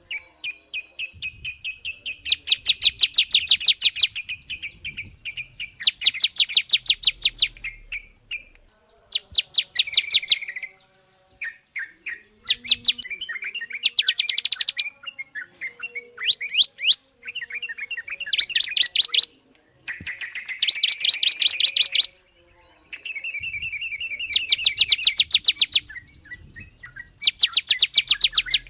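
A songbird singing loud, very fast trills of rapidly repeated high notes, each burst lasting one to two seconds and coming again every few seconds, with softer chirps in between.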